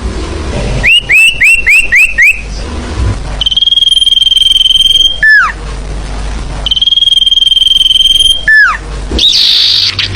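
Bird-lure recording of forest birdsong: a run of about six quick rising whistled notes, then two long steady high whistles, each ending in a quick falling slur.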